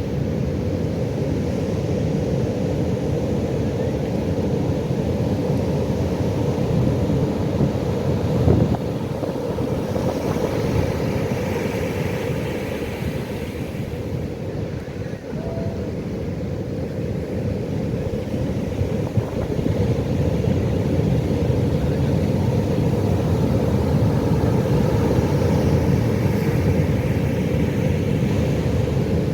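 Pacific Ocean surf: a steady low rumble of breaking waves, with the wash swelling about ten seconds in and again near the end.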